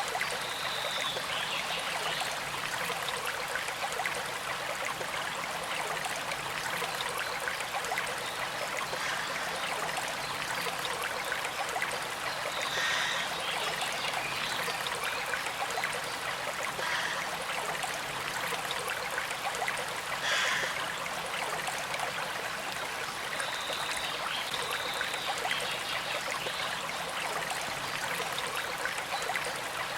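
Small creek flowing steadily, a continuous trickle of running water, with a few brief brighter splashes, the most prominent about twenty seconds in.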